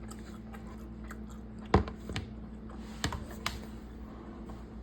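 A few sharp clicks and taps of cutlery against a plate while eating, the loudest a little under two seconds in, over a steady low hum.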